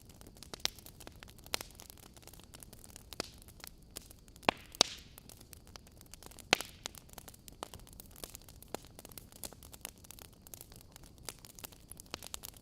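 Wood fire crackling in a fireplace: irregular sharp pops and snaps over a soft hiss, with a few louder pops near the middle.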